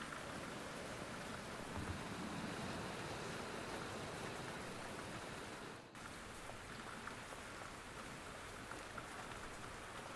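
Steady rain falling on a car, an even hiss of drops with a brief dropout about six seconds in.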